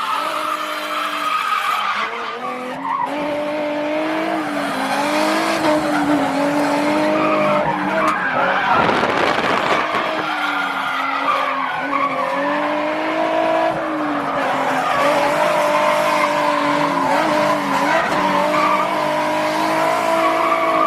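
Drift car's engine held on the throttle, its pitch wavering up and down through the slides, over continuous tyre skidding. The tyre noise swells about halfway through.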